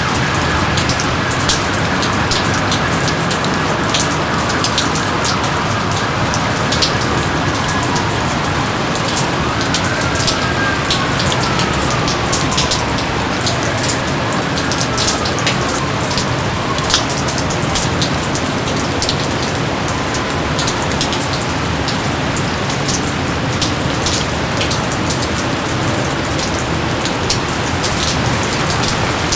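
Steady rain, with many close individual drops ticking sharply over the even hiss of the downpour. A few slow, falling whistle-like tones come through faintly near the start and again about ten and fourteen seconds in.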